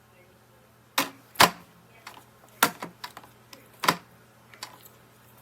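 Hard plastic clicks and knocks from parts of a bagless upright vacuum cleaner being handled and fitted: four sharp knocks about a second apart, the second the loudest, with fainter ticks between them.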